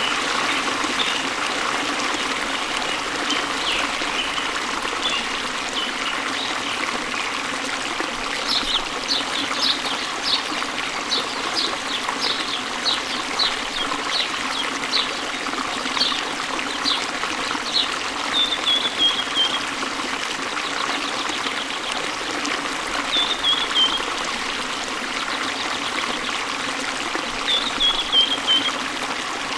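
A stream trickling and splashing steadily over rocks, with a songbird calling over it. The bird gives a quick run of short, high chirps, then three short falling phrases spaced a few seconds apart.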